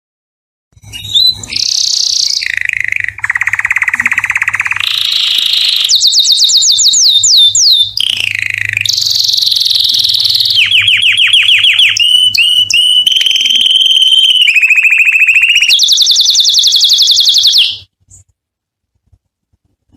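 Domestic canary singing one long unbroken song of rapid trills and rolls, changing to a new repeated phrase every second or two. It starts about a second in and stops sharply a couple of seconds before the end.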